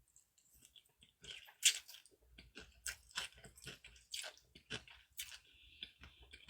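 A person chewing food close to the microphone: a quiet, irregular run of short wet mouth clicks, starting about a second in.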